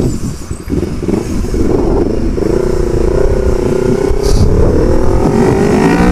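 Yamaha R25's parallel-twin engine through a Proliner short full-system exhaust while riding: a couple of seconds of noisy rush, then the engine pulls in gear with its pitch climbing slowly and rising faster near the end as it accelerates.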